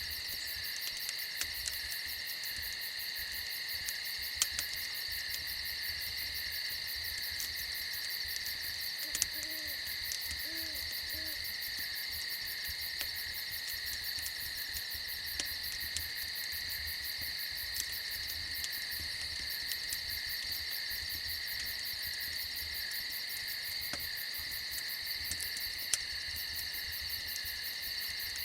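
Steady night chorus of crickets and other insects trilling, with a few soft, low owl hoots about a third of the way through. A handful of sharp single pops stand out now and then.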